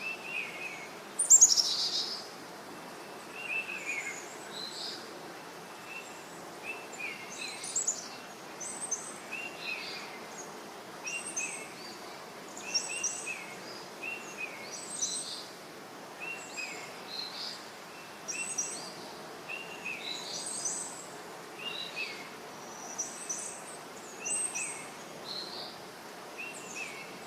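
Songbirds chirping: short paired notes repeated every second or two, with one louder, higher call sweeping down about a second in, over a steady background hiss.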